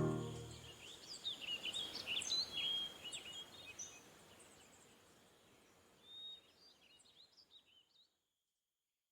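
Music fading out, then faint birds chirping in quick clusters of short, pitch-gliding chirps, twice over, before the sound cuts to silence near the end.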